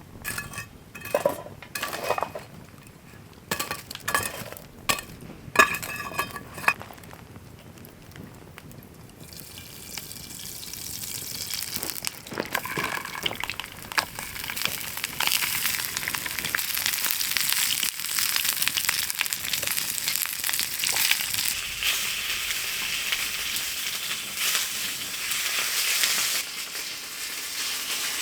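Sharp clinks and knocks, then sausages and steak starting to sizzle in a frying pan over a campfire. The sizzle builds over several seconds and then holds steady.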